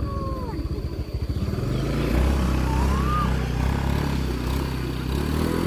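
Small motor scooter engine working up a steep dirt path, its steady running getting louder about two seconds in.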